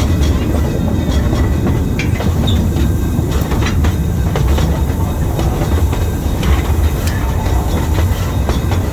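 Zoo train's passenger car rolling along the track: a steady low rumble with scattered clicks and knocks from the wheels and cars.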